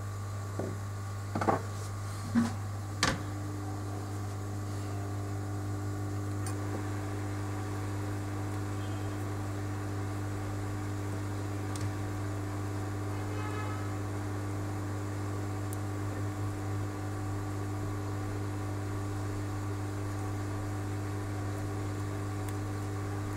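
Steady electrical hum from running equipment, with a few sharp clicks in the first three seconds. At the last click a second, higher steady tone joins the hum and holds.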